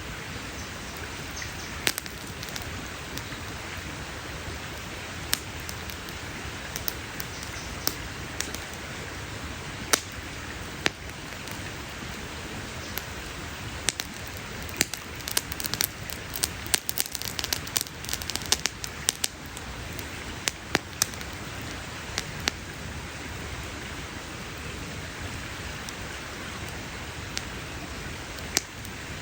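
Wood campfire crackling: a steady hiss with scattered sharp pops and snaps, which come thick and fast about halfway through.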